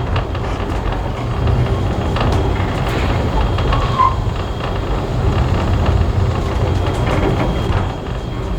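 Heritage railway carriage running on the rails: a steady low rumble with scattered clicks and rattles, and a brief high squeak about four seconds in.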